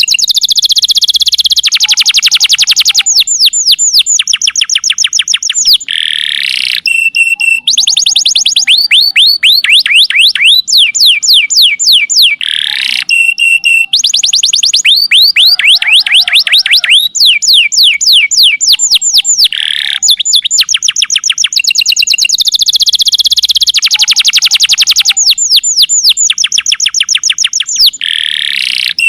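Domestic canary singing a loud, long song of fast trills: rapidly repeated notes, each sweeping down in pitch, phrase after phrase with barely a pause, broken a few times by brief harsher rattling passages.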